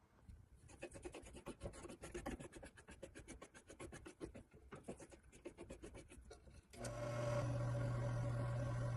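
Quick, repeated back-and-forth scratching strokes against a surface, several a second. About seven seconds in, a machine starts up with a steady, louder hum.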